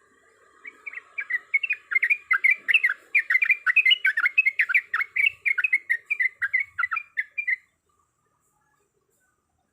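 Sooty-headed bulbul (trucuk) singing a fast, unbroken run of warbling notes, the long rolling 'ropel' song, for about seven seconds, then stopping abruptly.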